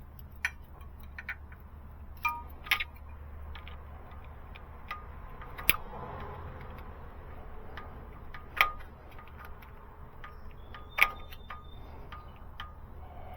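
Hand tools clicking and clinking on metal at irregular intervals, about half a dozen sharp clinks, some ringing briefly, as a Jake brake adjusting screw is tightened down over a feeler gauge. A low steady hum runs underneath.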